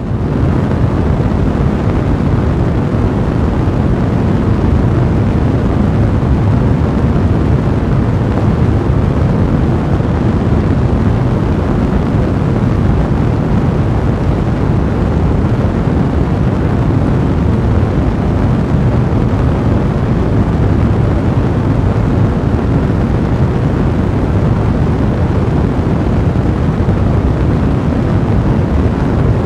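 Steady low roar of a blazing fire, a dense rumbling noise with no distinct crackles standing out.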